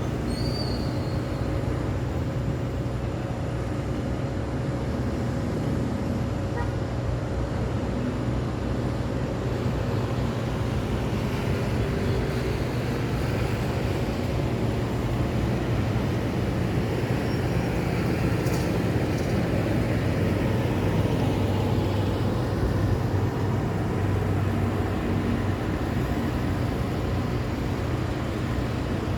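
Steady city road traffic: engines of cars, trucks and motorcycles rumbling past, with a heavier vehicle swelling up and fading away about halfway through.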